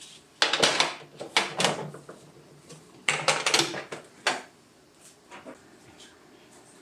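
Household handling noises: a few short bursts of rustling and clattering as things are picked up and set down, then a quieter stretch for the last couple of seconds.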